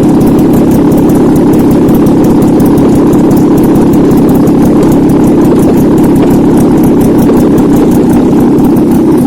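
Nissan VQ35DE 3.5-litre V6 engine running steadily at idle on a test stand.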